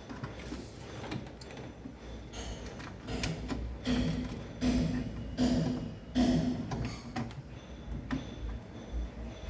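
A run of irregular knocks, scrapes and rattles of things being handled, busiest in the middle.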